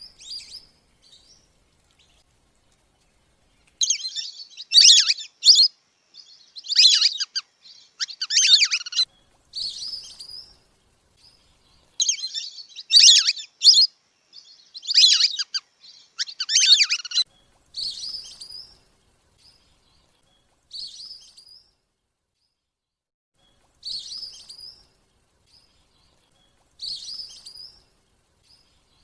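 Wandering whistling ducks calling: bursts of high, clear whistles, loud and crowded together for the first half, then shorter single calls every few seconds.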